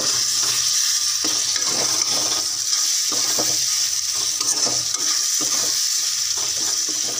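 Chopped tomatoes and onion-spice masala sizzling in hot oil in a kadhai, stirred with a spatula in repeated strokes over the steady frying hiss.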